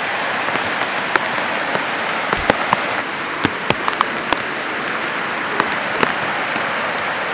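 Heavy rain falling as a steady hiss, with irregular sharp taps of drops landing close to the microphone, most of them in the middle few seconds.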